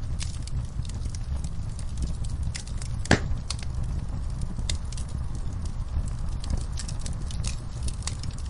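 Fire crackling in a fireplace: a steady low rumble with scattered sharp crackles and one loud pop about three seconds in.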